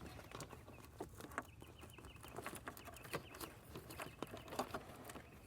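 Faint scattered clicks and rustles of wiring and plastic being handled and tucked into the dashboard, with a faint run of quick high chirps in the middle.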